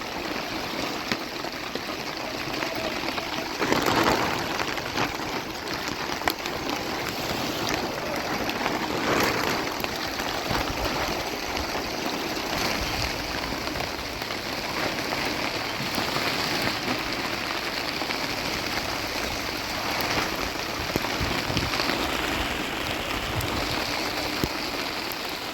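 Heavy rain falling: a steady hiss with scattered drop patter, briefly louder about four seconds in.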